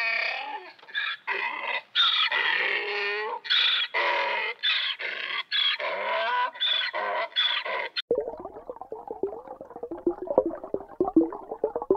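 Donkey braying over and over, each call rising and falling in pitch. The braying cuts off suddenly about eight seconds in, and background music with quick plucked notes follows.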